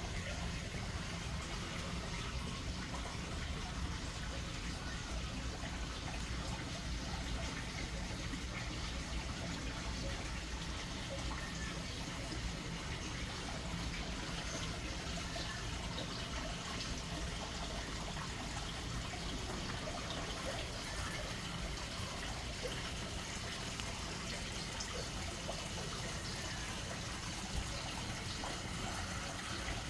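Small waterfall: water splashing and trickling in a steady rush.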